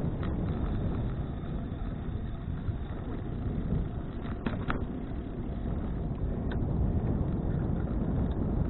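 Wind buffeting an action camera's microphone during a bicycle ride: a steady low rumble that swells and fades, with a few faint clicks around the middle.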